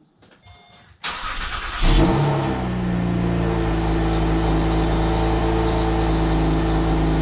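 Acura TL SH-AWD's J37 V6 cold-starting: the starter cranks for about a second, the engine catches with a loud flare about two seconds in, then settles into a steady idle. It runs with the primary catalytic converters deleted and an aftermarket J-pipe, which makes it much louder.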